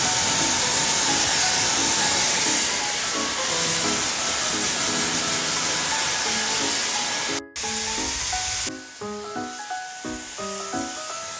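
ReFa Beautech hair dryer blowing, a steady rush of air under light background music. The air noise breaks off for an instant about two-thirds of the way through, then drops away shortly after, leaving the music.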